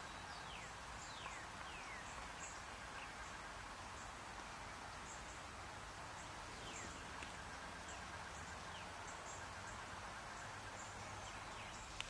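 A songbird gives short falling whistled notes, a quick series at first and then a few more spaced out. Beneath them are faint high chirps over a steady outdoor hiss.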